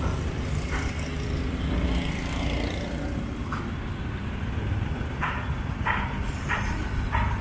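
Street traffic: a steady low rumble of passing motor vehicles. In the second half come four short, evenly spaced higher-pitched chirps, about two thirds of a second apart.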